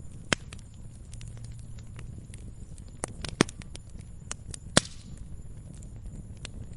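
Fire crackling in a fireplace: scattered small snaps over a low rumble, with three sharp pops at about half a second, three and a half seconds and five seconds in.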